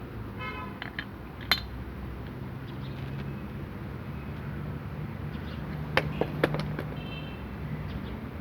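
Steel differential parts clinking and knocking as a truck rear differential is put together: a sharp clink about a second and a half in and three quick knocks around six seconds, with short metallic rings, over a steady low hum.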